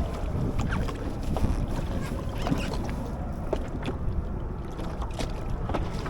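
Wind rumbling on the microphone on a fishing kayak in a strong southerly, with scattered small knocks and splashes against the hull.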